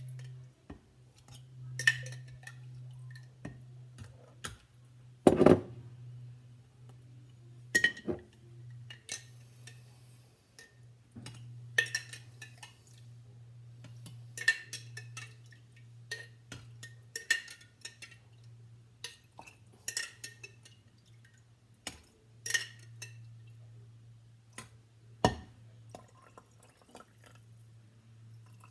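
Glass canning jars clinking and knocking as sweet and sour sauce is put into them, with a brief liquid pour. Sharp clinks come every second or two, with one heavier knock about five seconds in, over a steady low hum.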